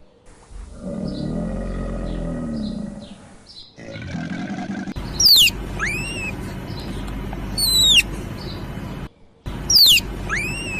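A bird giving loud, sharp calls that sweep steeply down in pitch, about every two to two and a half seconds from about five seconds in; some are followed by a short upward call. Before them, a lower-pitched animal call.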